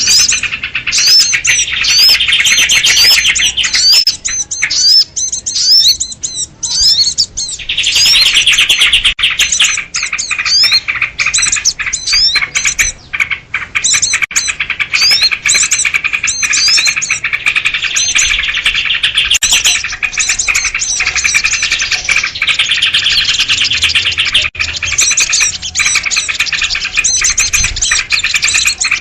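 A dense, continuous commotion of small birds, with sooty-headed bulbuls (kutilang) chattering in agitated alarm: rapid trills mixed with many short, quick rising chirps. It is a bird-lure call used to draw small wild birds.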